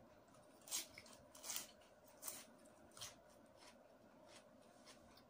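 Crisp lettuce being bitten and chewed close to the microphone: a few sharp crunches in the first three seconds, then fainter chewing.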